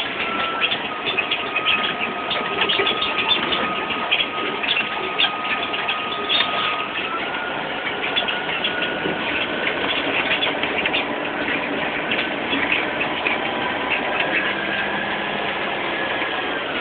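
A dense frog chorus after rain: many rapid clicking calls and a long, steady, high trill that holds for several seconds at a time and shifts in pitch a few times.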